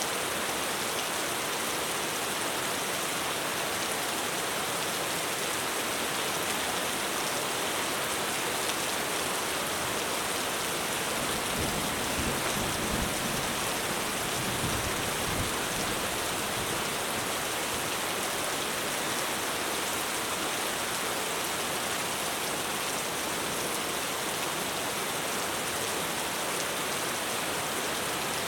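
Heavy rain falling steadily on a roof, with a low rumble of thunder about halfway through.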